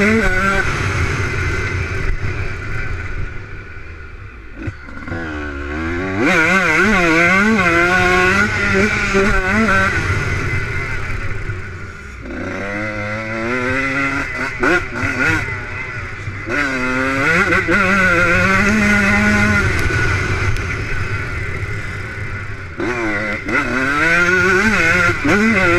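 Motocross bike engine revving hard and easing off again and again as the bike rides, its pitch climbing and dropping with each burst of throttle. It is quieter around four seconds and again around twelve seconds in.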